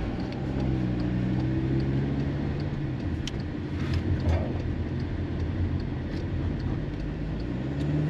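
Car engine running as the vehicle is driven, a steady low rumble whose pitch drops about three seconds in and rises again near the end.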